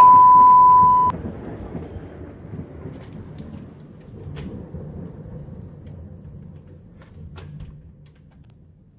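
Thunder rumbling low and slowly fading away over several seconds, with a few sharp clicks. A loud steady beep lasts about the first second.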